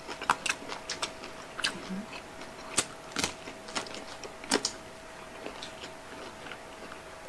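Chewing and crunching of crispy fried pork: irregular sharp crunches, the loudest about three and four and a half seconds in, over a faint steady hum.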